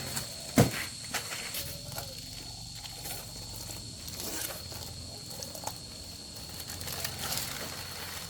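Scattered clicks and light knocks of metal parts and tools being handled during motorcycle repair, the loudest a sharp click about half a second in. A steady thin high-pitched tone runs underneath.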